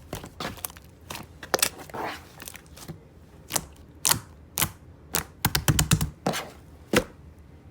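Slime mixed with clay being squeezed and poked by hand, giving irregular crisp clicks and snapping pops from trapped air.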